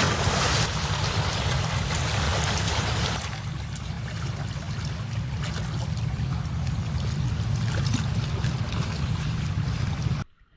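Rushing, washing water with low wind rumble on the microphone, cutting off abruptly about ten seconds in.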